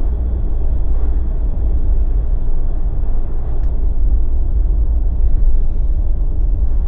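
A Jeep driving along, giving a steady low rumble of engine and road noise with no change in speed.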